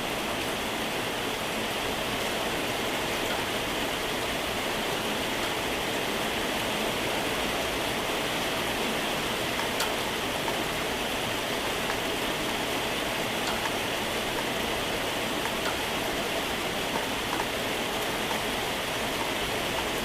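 Moderate to heavy rain falling steadily: an even hiss of rain with a few faint drop ticks.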